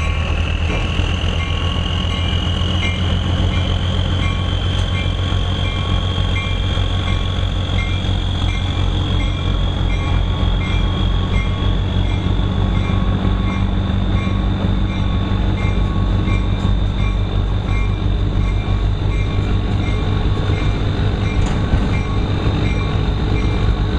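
Narrow-gauge train getting under way: a steady low engine drone, with a thin whine that rises in pitch over the first ten seconds or so and then holds, and a faint regular ticking.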